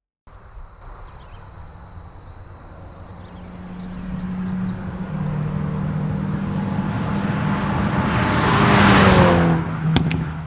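Hyundai Veloster N's turbocharged four-cylinder engine at speed, its note building steadily louder as the car approaches and passes about nine seconds in with a rush of noise, the pitch dropping slightly as it goes by. A few sharp clicks near the end.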